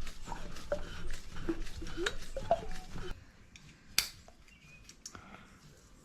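Metal hand tools clinking and rattling as they are handled, mixed with a few short rising squeaks. It goes quieter about three seconds in, with a single sharp click about a second later.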